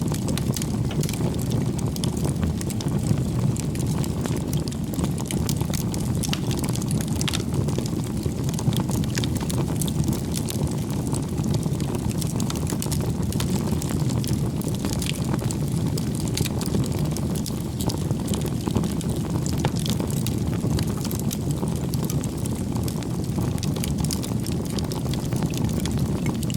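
A bonfire of firewood burning: a steady low rush of flame with many small, sharp crackles and pops from the wood.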